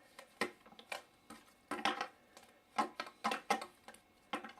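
Parts of an aromatherapy humidifier knocking and clicking against each other as they are handled and fitted together. The sound is a string of short, irregular knocks, several close together in the middle.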